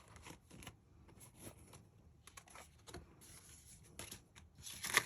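Light rustling and tapping of paper packaging being handled and unwrapped, with a louder rustle near the end.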